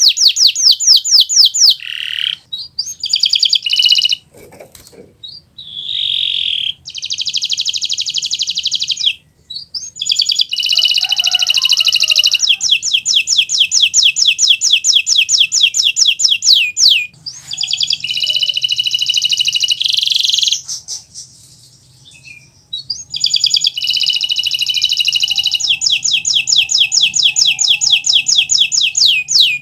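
Kenari Nusantara domestic canary singing in full, constant 'gacor' song: long, loud phrases of very rapid trills and buzzy rolls, high-pitched, broken by a few short pauses.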